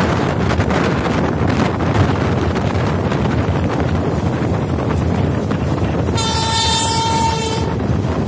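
Wind and running noise of an Indian Railways express train heard from an open coach door, with scattered clicks in the first half. About six seconds in, the train's horn sounds once for about a second and a half.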